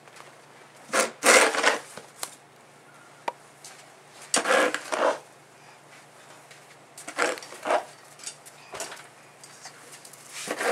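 Snow crunching and scraping in three short double bursts, about three seconds apart.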